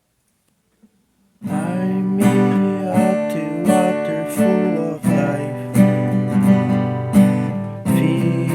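Acoustic guitar strummed in a steady rhythm for a folk song, starting about a second and a half in after a brief silence.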